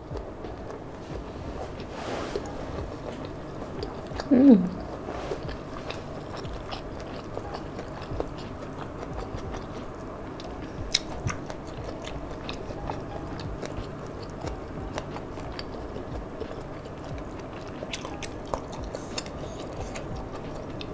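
Close-up chewing and eating sounds of a person eating nasi padang with rice, greens and rendang by hand, with many small wet clicks. About four seconds in, a short voiced sound falling in pitch is the loudest moment.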